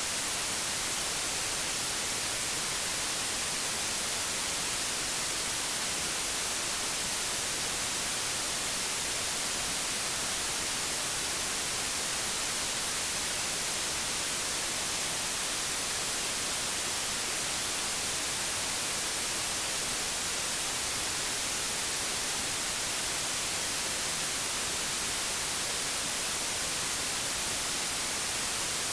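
Old analogue television static: a steady, even hiss, strongest in the treble, with no changes.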